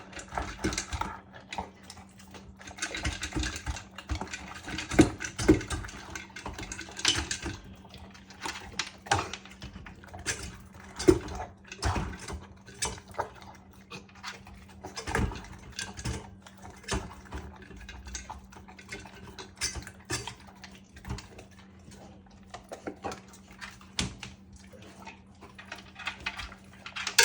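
A Labrador retriever eating its meal: irregular crunches and sharp clicks, thickest in the first several seconds.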